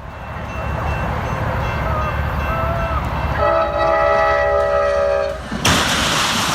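Train rumbling past with its horn blowing: a short wavering call, then a long steady chord-like blast. A sudden loud rushing burst follows near the end.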